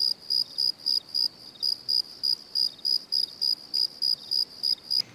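Crickets chirping in an even rhythm, about three short high chirps a second.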